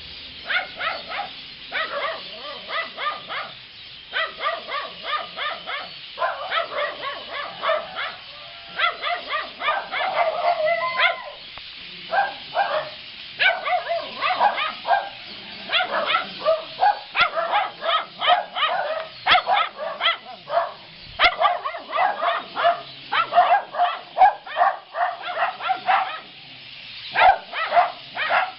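A dense, nonstop chorus of short, repeated calls from a flock of birds gathered in a tree, with dogs barking among them. There are brief lulls now and then.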